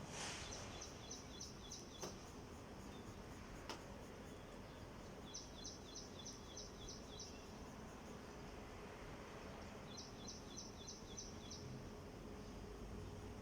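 A bird calling in the background: three short runs of about seven quick, high chirps, a few seconds apart. There are also two faint clicks and a low steady hiss.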